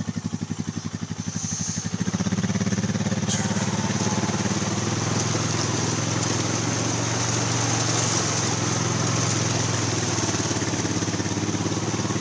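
A vehicle engine running, pulsing at low revs at first, then pulling harder and louder about two seconds in and holding steady.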